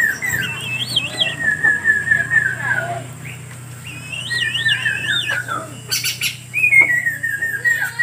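A bird singing: a quick series of whistled notes stepping down in pitch, repeated several times, with higher warbling phrases in between. A steady low hum lies underneath.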